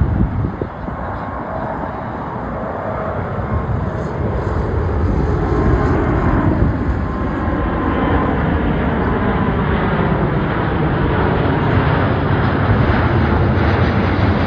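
Jet airliner flying over, its engine noise growing louder over the first several seconds and then holding steady, with a whining tone in it that falls in pitch as the plane passes.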